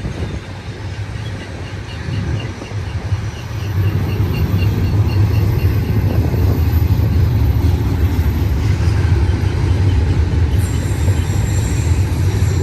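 Double-stack intermodal freight train rolling past, a steady low rumble of steel wheels on rail that grows louder about three and a half seconds in.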